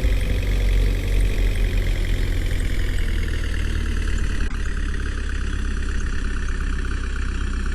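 Heavy diesel engine of a tractor or backhoe loader idling steadily, its pitch easing down slightly.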